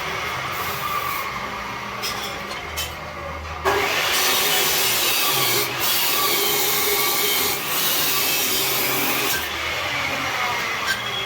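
Power tool working metal, a steady rasping noise whose pitch wanders under load, growing suddenly louder about four seconds in.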